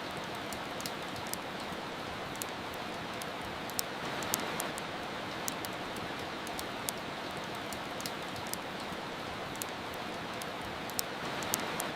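Steady hiss of rain with the sharp, irregular crackles and pops of a fireplace fire laid over it, a dozen or more small pops spread through the stretch.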